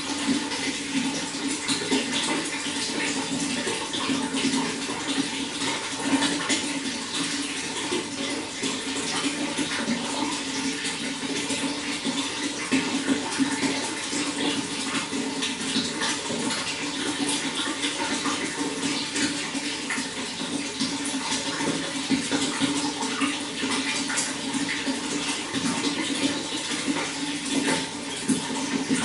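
Running water flowing and splashing in a steady, unbroken stream, with a low rushing tone under many small splashes.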